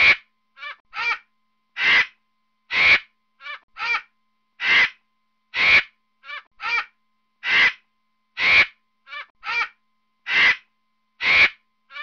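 Harsh, cawing bird calls repeating steadily: two loud caws, then two shorter, fainter ones, the pattern coming round about every three seconds.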